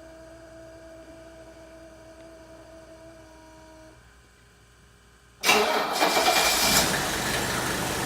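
Cold start of a 1983 Mercedes-Benz 300D's five-cylinder diesel in freezing weather: after a faint steady hum, the engine cranks and catches at once about five seconds in, then settles into a steady idle.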